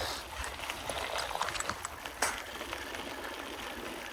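Bicycle rolling along a trail: steady tyre and riding noise with small rattles and ticks, and one sharp click about two seconds in.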